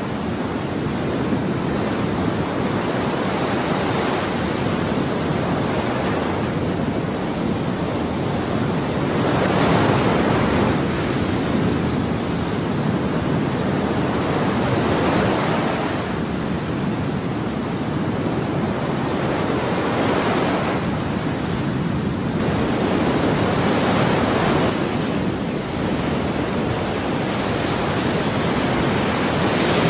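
Ocean waves washing on a shore, a continuous rushing surf that swells and ebbs every few seconds as each wave breaks and draws back.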